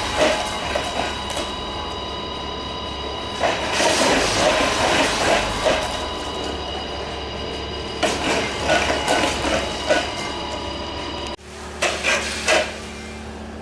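Ishida combination weigher and lifter running on a test: a steady motor hum with several fixed tones, broken by bursts of mechanical clatter about every four seconds. Near the end the hum drops abruptly, as if a motor has stopped, and one more short burst of clatter follows.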